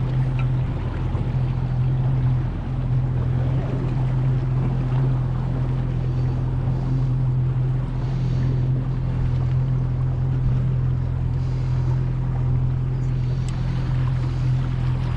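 Boat motor running at a steady, unchanging low pitch, with water and wind noise over it.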